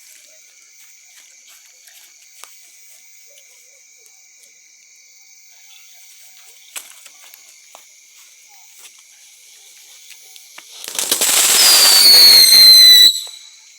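Small firework going off with a loud hiss and a shrill whistle that falls slightly in pitch, lasting about two seconds near the end and then cutting off suddenly.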